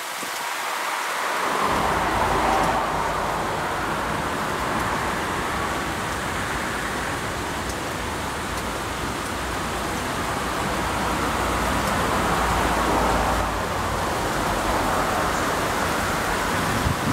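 Heavy rain pouring down, with a long, low rumble of thunder under it. The rumble comes in about a second and a half in, swells and eases, and the sound cuts off suddenly at the end.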